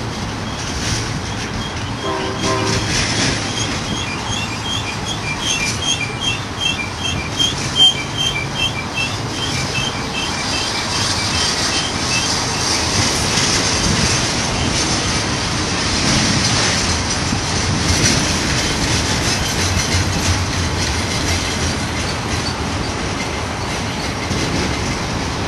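BNSF intermodal container train rolling past on steel wheels, with steady rumble and clatter over the rail. Rhythmic high-pitched wheel squeals repeat from about three to twelve seconds in, and a brief tone sounds about two seconds in.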